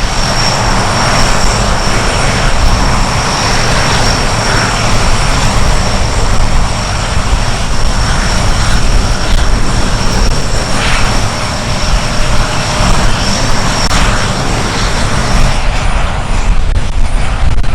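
Lockheed KC-130H Hercules' four Allison T56 turboprop engines running loud, with a steady high-pitched whine over the propeller noise. Near the end the whine stops.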